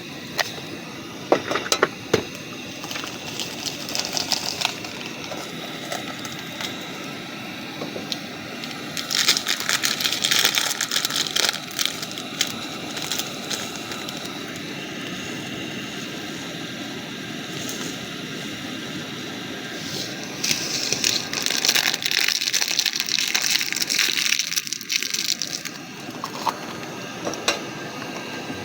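Portable gas stove burner hissing steadily under a pot of tea. Twice, for a few seconds, a louder crackly rustling rises over it.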